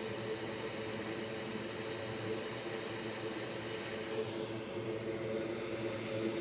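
Hot air rework station blowing onto the circuit board: a steady rushing hiss of air over a low fan hum. The highest part of the hiss eases about four seconds in.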